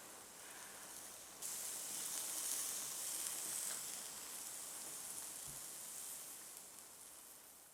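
Food sizzling in a hot pan, the sizzle starting suddenly about a second and a half in and slowly dying down.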